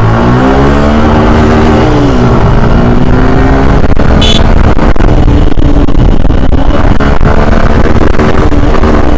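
Suzuki Gixer 155 cc single-cylinder motorcycle engine accelerating hard at full throttle. The revs climb, drop at an upshift about two seconds in, then climb again, over heavy wind rush. A brief high-pitched beep sounds about four seconds in.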